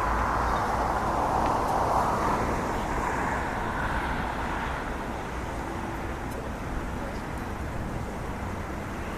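Jet engine noise of an Airbus A320neo with Pratt & Whitney PW1100G geared turbofans on takeoff: a steady rushing roar that is loudest in the first couple of seconds and then eases slightly.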